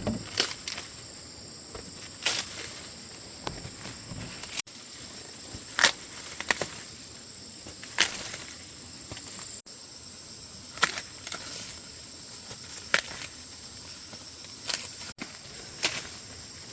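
Steady high-pitched insect drone, with sharp cracks every second or two.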